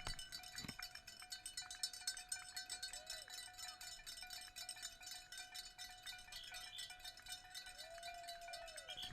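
Faint, steady metallic ringing with many small clicks.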